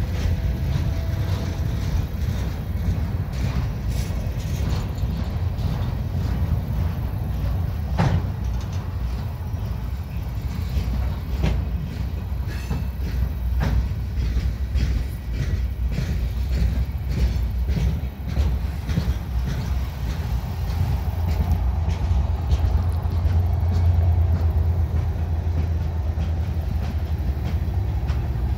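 Empty railroad flatcars rolling past on steel wheels: a steady low rumble with scattered clicks and clanks, one sharp knock about eight seconds in. The rumble swells near the end.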